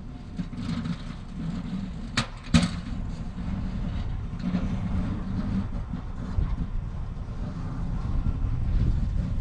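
A vehicle engine running with a steady low rumble. Two sharp clicks a little over two seconds in stand out as the loudest sounds. The rumble grows slowly louder near the end.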